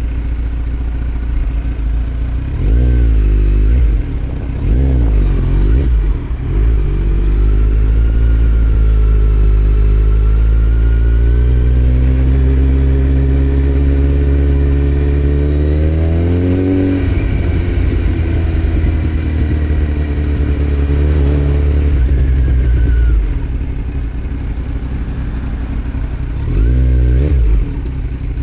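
2018 Kawasaki Z900's 948 cc inline-four running through Delkevic headers and a Yoshimura muffler with no dB killer, under way. Two short rises and falls in revs come in the first six seconds. Then the revs climb steadily for about ten seconds, drop sharply, and hold steady for several seconds before easing off. A brief rev comes again near the end.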